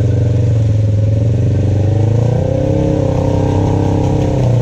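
Off-road vehicle engine running steadily under load, its revs rising a little about halfway through.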